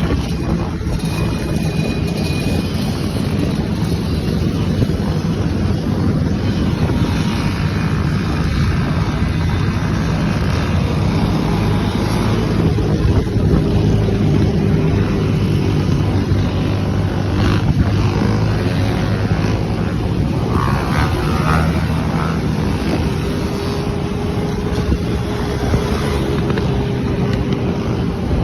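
Yamaha YFZ450 sport quads' single-cylinder four-stroke engines running steadily on the move, with wind noise on the microphone.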